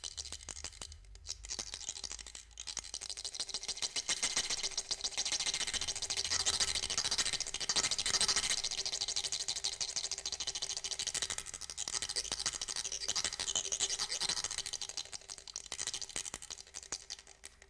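Rapid, dense dry scraping and rattling from a reconstructed prehistoric percussion instrument, such as a rasp or rattle, swelling louder in the middle and fading near the end. A faint steady tone runs underneath.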